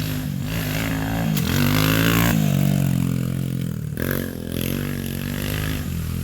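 Small mini dirt bike engine revving. Its pitch climbs and then drops sharply about two seconds in, and changes again around four seconds, as the throttle is worked or the bike shifts.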